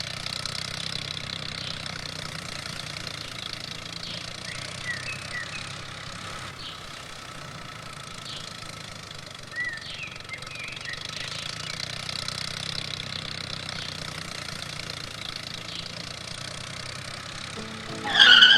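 A small motor of a DIY mini tractor runs steadily with a low hum, while a few short high chirps come and go. A brief louder burst sounds near the end.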